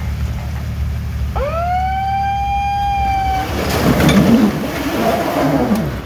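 A long cry from one voice that sweeps quickly up in pitch and is then held for about two seconds. A loud rush of noise mixed with wavering voices follows about halfway through, over a steady low rumble.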